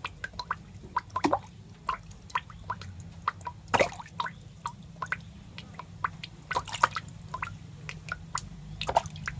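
Irregular small wet clicks and crackles, a few each second with a louder cluster about four seconds in and another near seven seconds, over a steady low hum.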